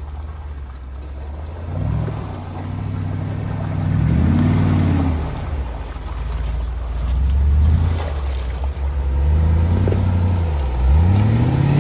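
Off-road 4x4's engine running, revved up and back down twice, then rising again near the end, as the vehicle is driven over rough ground.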